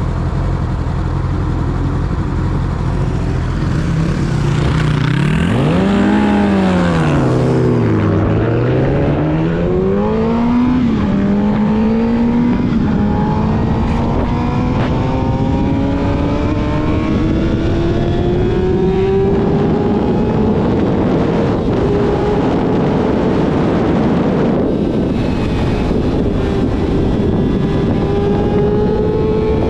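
Yamaha YZF-R6 inline-four with a full-system aftermarket exhaust, running steadily at first, then blipped up and down twice about five seconds in. It then accelerates through the gears, with the pitch climbing in steps and then in one long slow rise before settling into a steadier, higher note near the end.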